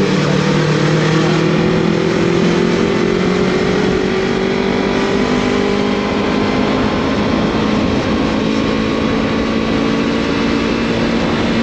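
Yamaha MT-03 with a Scorpion full-system exhaust running under way, its engine note climbing gently for the first few seconds and then holding steady, with a heavy rush of wind noise.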